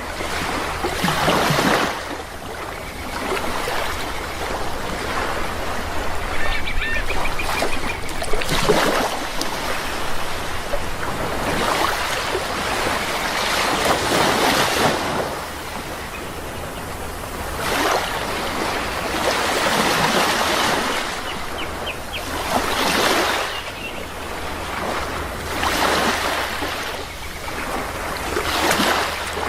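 Sea waves washing in one after another, each surge of surf rising and falling every few seconds. Birds call faintly now and then.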